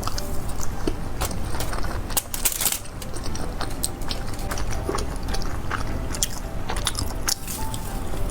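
Close-miked chewing and crunching of deep-fried skewered food, a quick irregular run of crisp crackles and bites, over a low steady hum.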